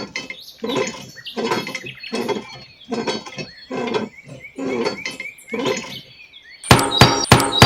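An animal crying over and over in short pitched calls, about two a second. Near the end, a run of loud, sharp, ringing strikes takes over.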